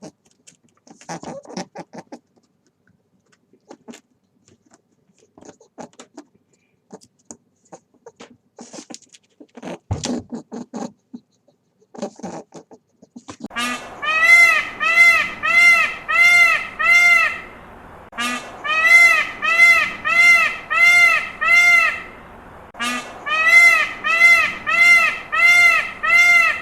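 An animal calling: scattered short clicks and scratchy sounds, then, about halfway through, a loud series of short repeated calls, about two a second, in three bouts of about four seconds each.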